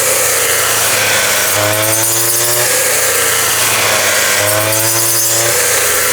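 Mini rice threshing machine running steadily under power, with a slightly rising tone that comes back about every three seconds.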